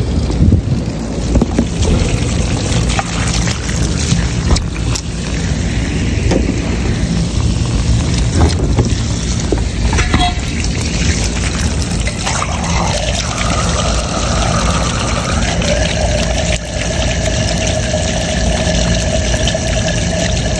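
Water running and gurgling through a rooftop HVAC unit's condensate drain and T-trap as it is flushed to clear a clog, over a steady low machine hum. Scattered clicks and knocks come in the first half, and a steadier pitched flow tone sets in about two-thirds of the way through.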